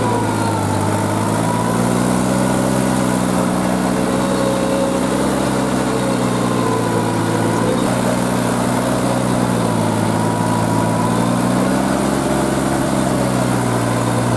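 Kubota L3408 tractor's three-cylinder diesel engine running steadily, its speed sagging slightly and recovering a few times as it works a rotavator through puddled mud.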